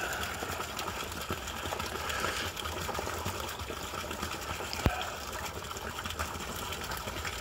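Koi pond waterfall running, water splashing and trickling steadily with a low steady hum underneath, and one sharp tick about five seconds in.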